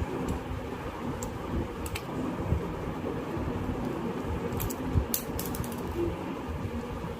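Scattered light clicks and handling sounds over a steady low rumble, from small plastic and metal parts being worked by hand.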